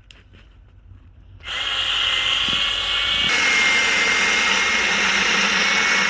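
Milwaukee electric chainsaw starting up with a steady high whine after a quiet second and a half, then running louder and harsher from about three seconds in as it cuts a dead tree into firewood.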